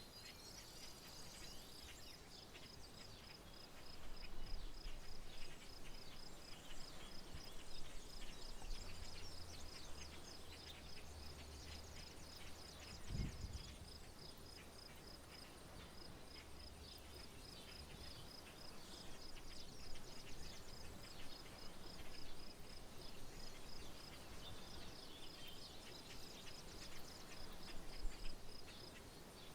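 Countryside ambience with an insect's steady high-pitched chirping, about three pulses a second, and scattered bird chirps. A low rumble comes in for a few seconds in the middle.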